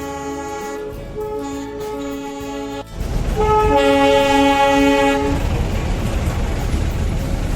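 Background music, then a sudden cut about three seconds in to the Darjeeling Himalayan Railway toy train running, its horn sounding for about two seconds over a steady rumble that carries on afterwards.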